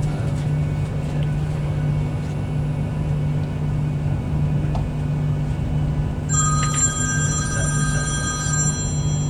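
Steady low hum inside a Virgin Trains Class 390 Pendolino carriage as the train runs. About six seconds in, an electronic ringing tone of several steady pitches sounds for about two and a half seconds.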